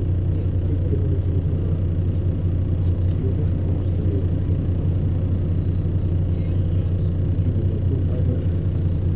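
City bus on the move, heard from inside the passenger cabin: a steady low rumble of engine and road.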